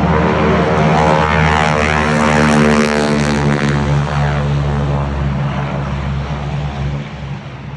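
Propeller airplane's engine running as the plane passes by, loudest about two to three seconds in, then fading.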